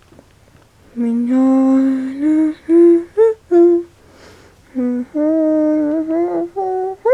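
A woman humming a slow tune in two phrases of held notes, the second starting about five seconds in.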